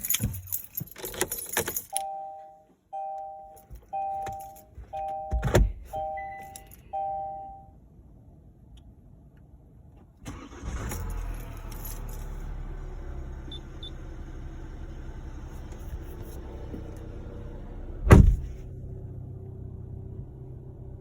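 Keys jangling, then a two-tone dashboard chime repeating six times, about once a second. After a short quiet gap the Kia Ceed's 1.6 CRDi diesel engine starts about ten seconds in and settles into a steady idle, with one loud thump about eight seconds later.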